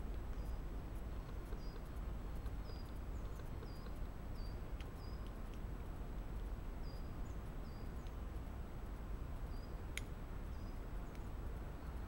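A small bird calling in the woods: a dozen or so short, high chirps, roughly one a second, over a steady low rumble. A single sharp click about ten seconds in.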